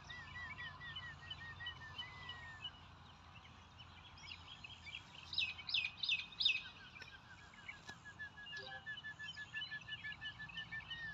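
Birds calling: a run of short repeated notes, a longer whistle about two seconds in, four loud down-sweeping calls near the middle, then another quickening run of short notes.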